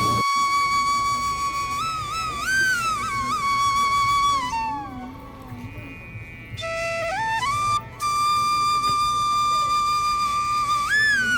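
Background music: a slow flute melody of long held notes with bends and slides, dipping quieter for a couple of seconds midway.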